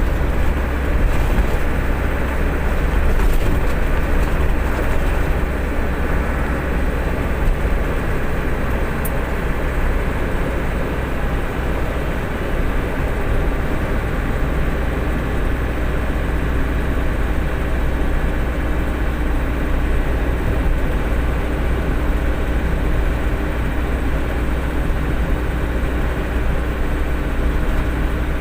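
A truck running with a steady low engine drone and an even rumble of noise, unchanging throughout.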